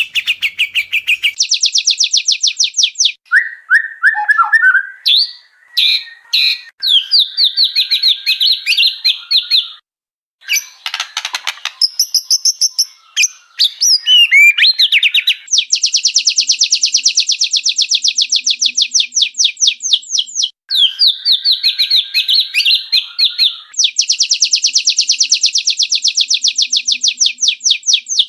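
White-rumped shama song from an edited birdsong training recording: loud, fast rattling trills of rapidly repeated high notes mixed with shorter whistled phrases. The two longest trills come in the second half, each lasting about four seconds.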